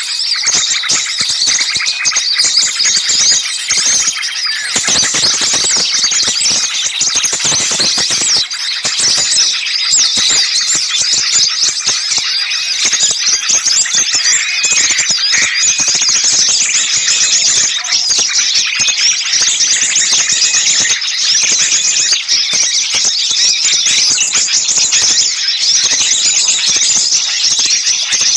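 A dense, continuous chorus of many small birds chattering and calling at once, fast high-pitched chirps and short whistles overlapping with no break: an agitated 'ribut' bird-lure recording made to draw small birds in.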